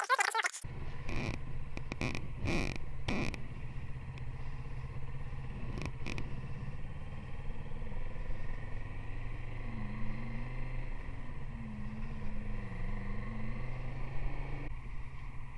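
Motorcycle engine running steadily while riding, with a few sharp clicks in the first few seconds.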